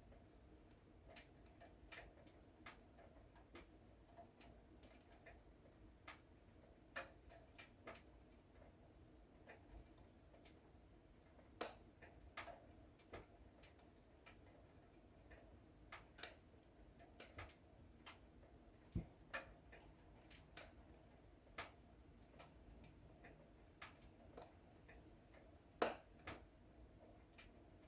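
Wood fire in a fireplace crackling: irregular sharp snaps and pops, some loud and most faint, over a faint low hiss, with the loudest pop near the end.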